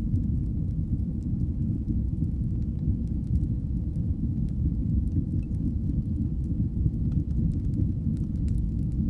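Wood fire in a fireplace burning with a steady low, rumbling roar and scattered faint crackles and pops.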